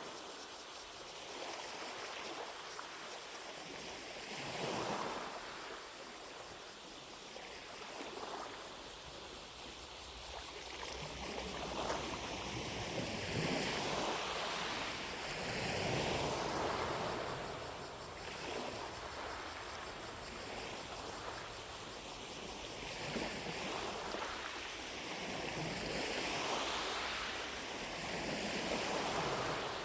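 Small lake waves lapping against the shore, each soft wash of water swelling and falling away every few seconds. Distant cicadas make a faint steady drone behind them.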